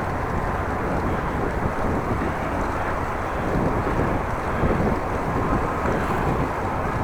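Wind rushing over the microphone of a camera mounted on a moving bicycle on a windy day, a steady low rumble with no let-up.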